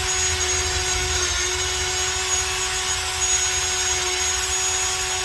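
Power drill running steadily at one speed, a 15/64-inch bit boring out a stripped water pump bolt hole in a Honda B18 engine block.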